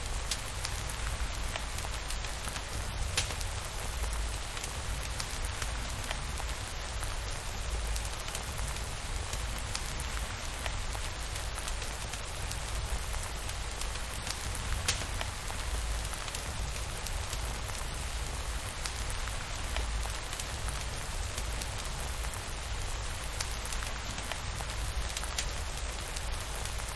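Steady rainfall with a deep low rumble and a few scattered sharp ticks.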